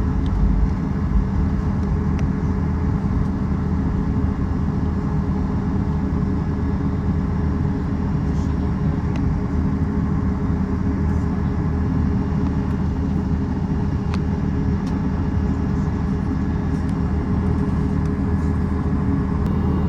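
Steady low rumble of a vehicle's engine and interior, with a constant hum and a few faint light clicks.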